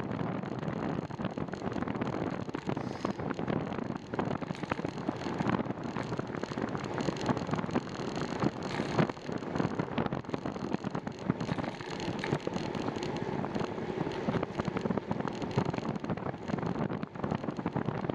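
Steady rush of wind over the microphone of a camera riding along on a moving bicycle, with road and tyre noise mixed in.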